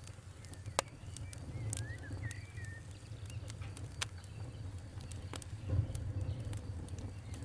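Fire crackling, with sharp pops at irregular intervals over a low steady rumble. A bird chirps briefly about two seconds in.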